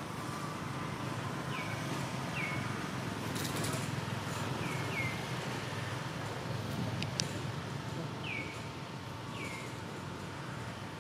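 A bird calling with short falling chirps, often in pairs, a second or more apart, over a steady low outdoor rumble and a faint steady tone. There is one sharp click about seven seconds in.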